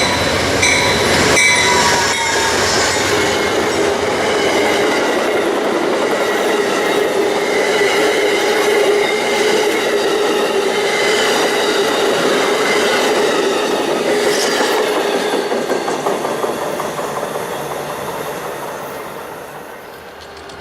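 A train rolling past on the rails, with a steady high squeal from the steel wheels. The sound fades away over the last few seconds as the train recedes.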